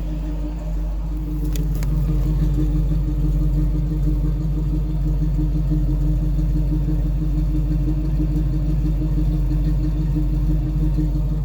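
Carbureted 302 V8 idling steadily, a little louder from about a second in. The owner can't tell whether the idle is a misfire, a rich mixture or timing that is off.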